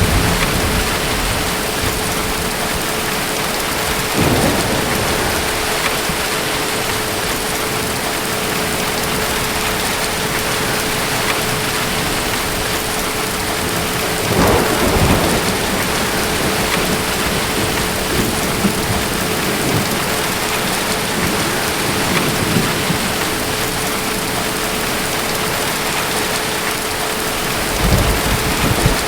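Steady heavy rain with distant thunder rolling in low rumbles about four seconds in, about fourteen seconds in, and again near the end.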